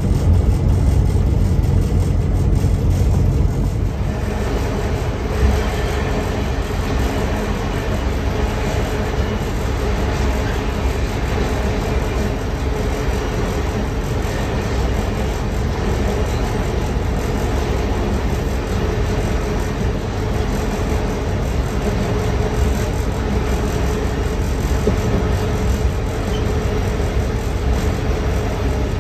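Train running, heard from the locomotive cab: a steady low engine rumble with rail and wheel noise. About four seconds in, a harsher rushing noise joins in and carries on.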